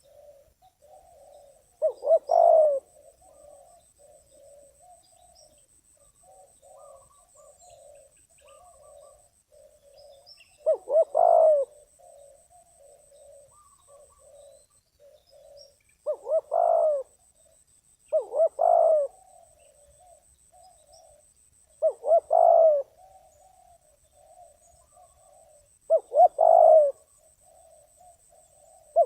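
Spotted dove, a trained decoy bird, cooing in loud rolling phrases about every two to five seconds, six in all. Fainter cooing carries on between the phrases.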